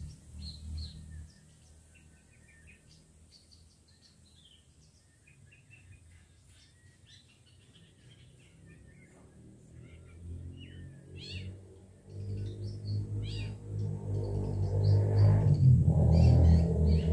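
Long-tailed shrike giving a run of short, varied chirps and whistles. About two-thirds of the way through, a low rumble with a steady hum rises beneath the calls and grows loud enough to dominate by the end.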